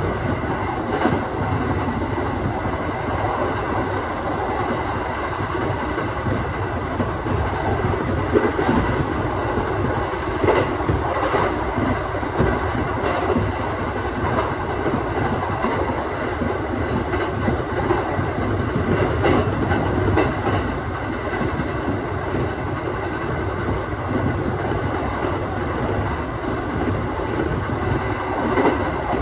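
Aoimori Railway 701-series electric train running at speed, heard from on board at the front: a steady rolling rumble of wheels on rail, with scattered clicks as the wheels pass over rail joints.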